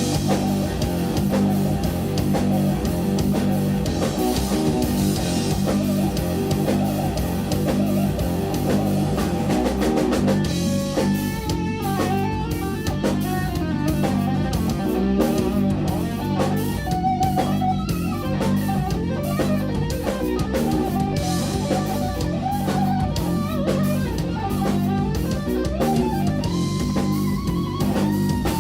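Live instrumental rock-fusion band playing: electric guitar over bass and a drum kit. About ten seconds in the cymbals drop back and the guitar line stands out more clearly.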